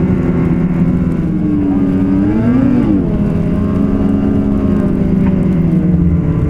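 Ski-Doo Renegade 850 snowmobile's two-stroke engine running steadily under way on the trail, its pitch rising and dropping back briefly a little over two seconds in as the throttle changes.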